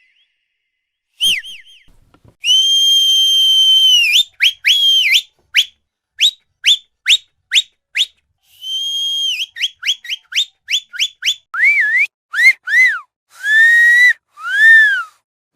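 High-pitched whistling tones in a playful sequence. There is a long held tone, then a run of short quick upward chirps, another held tone and more rapid chirps. Near the end come several swooping rise-and-fall tones that dip lower.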